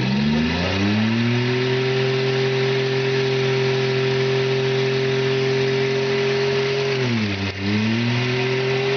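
Demolition derby car's engine revved hard in a tyre-smoking burnout. It holds a steady high pitch for several seconds while the spinning tyres hiss, drops briefly about seven and a half seconds in, then revs back up.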